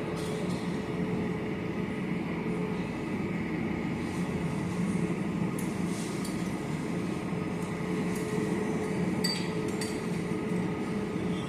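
Steady airport ambience: a continuous machine hum with a few held tones, and a few light clicks and clinks about six and nine seconds in.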